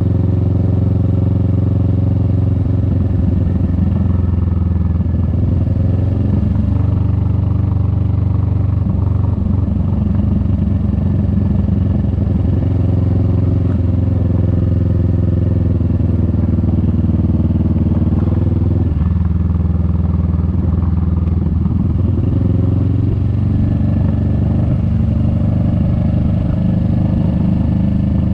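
Kawasaki Vulcan S 650's parallel-twin engine running while riding, with the pitch shifting several times as the throttle and gears change.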